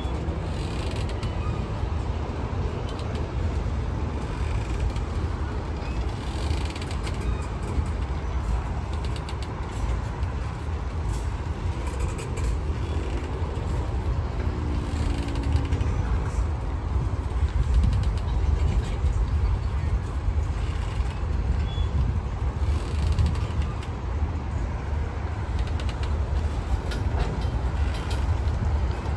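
Freight train of tank cars and coil cars rolling past: a steady low rumble of steel wheels on rail with occasional creaks and clanks from the cars.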